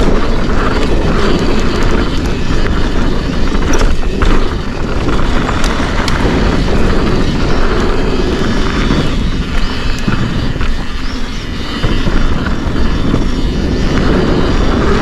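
Forbidden Dreadnought mountain bike descending a dirt trail: heavy wind buffeting on the camera microphone over the rumble of tyres on the ground, with scattered sharp clicks and knocks from the bike rattling over bumps.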